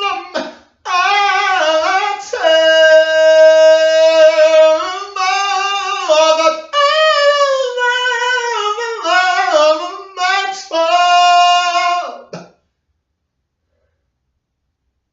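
A single voice singing unaccompanied and without words, in long held, wavering notes in a small room. It breaks off about twelve seconds in.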